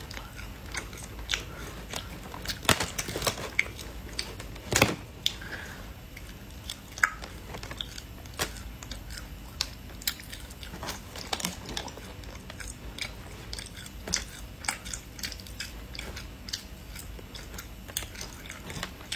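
A crisp sheet of roasted dried monkfish fillet torn by hand and chewed: irregular sharp crunches and crackles, the loudest a little under five seconds in.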